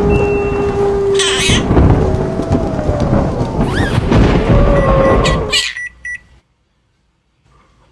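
Thunder-like rumble and rain noise, with steady and gliding tones over it. It cuts off suddenly about six seconds in, followed by near silence.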